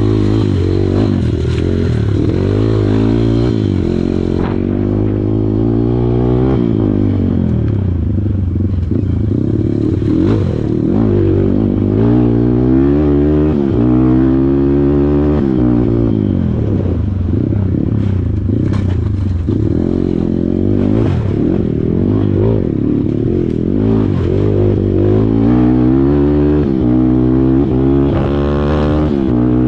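Kawasaki KLX140 dirt bike's single-cylinder four-stroke engine being ridden off-road, revving up and down continuously as the throttle is worked, its pitch rising and falling every second or two.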